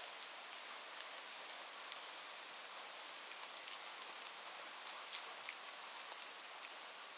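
Steady rain: an even hiss with many scattered ticks of single drops.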